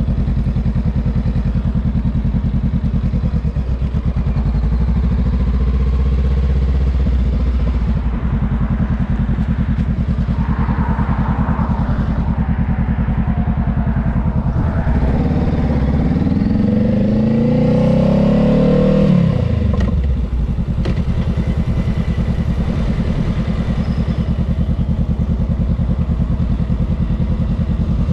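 Honda Rebel 500's parallel-twin engine running, heard from the rider's seat. Past the middle its note climbs for about four seconds, then drops off abruptly.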